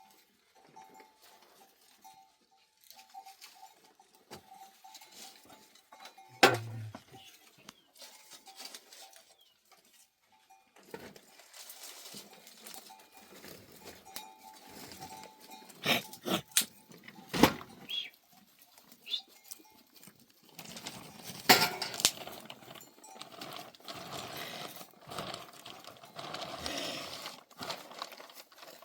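Scattered sharp knocks and clatter, about six in all, with a stretch of rustling and scraping near the end.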